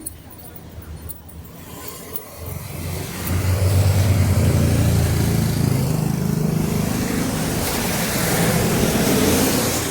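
A motor vehicle passes close by on the street: its engine and tyre noise swell about three seconds in, stay loud, and fade near the end.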